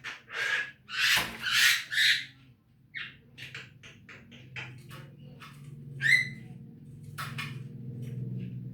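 Javan myna calling: a quick run of short harsh notes, louder rasping calls in the first two seconds, then scattered chirps and one rising whistled note about six seconds in. A low steady hum sits under the second half.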